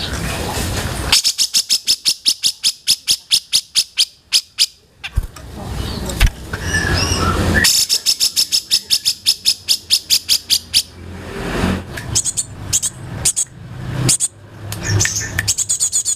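Songbirds calling: runs of rapid, evenly repeated high chips, about five a second, broken by short pauses, then more scattered chirps and twitters near the end.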